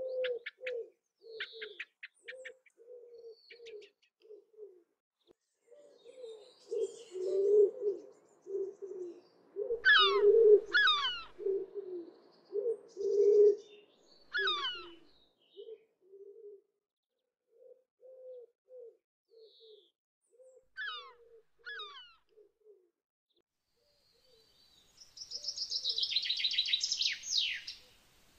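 Birds calling: a long run of low cooing notes repeated every half second or so, with sharp high calls that fall steeply in pitch breaking in a few times, and a dense burst of high chirping near the end.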